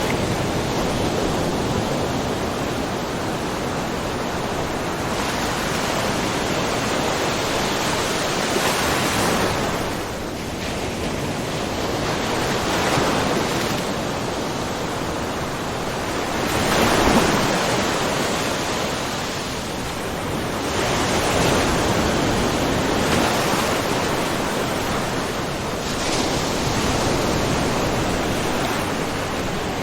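Small ocean waves lapping and splashing on a rocky shore, a continuous wash that swells and eases every few seconds, with the biggest surge about halfway through.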